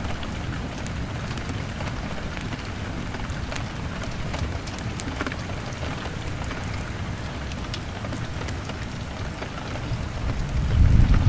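Steady rain falling on window glass, with many small sharp ticks of drops and log-fire crackle. A low rumble swells near the end.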